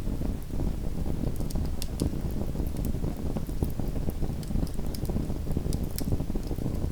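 Small fireplace fire crackling: irregular sharp snaps and pops over a steady low rumble from the flames.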